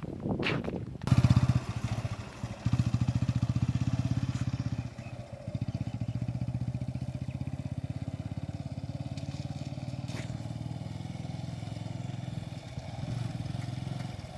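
Motorcycle engine catching about a second in, then running steadily at a low idle with an even, rapid firing pulse, faltering briefly twice in the first few seconds.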